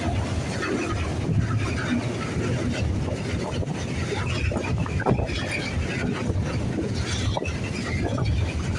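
Freight train passing through on the station track: a steady rumble from the wagons with a few sharp clicks of wheels over rail joints.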